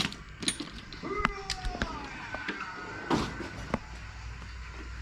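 Hand tools clicking and clinking as an adapter is fitted onto a 1/4-inch ratchet, with a few short squeaky tones in the middle.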